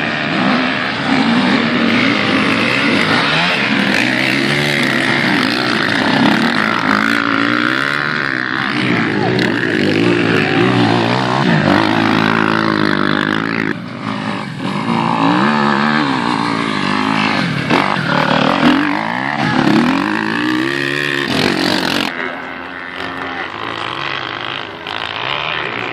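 Several racing motorcycle engines revving and easing off, their pitch climbing and falling as the bikes accelerate and brake. The engines overlap one another, and the sound drops abruptly to a quieter level near the end.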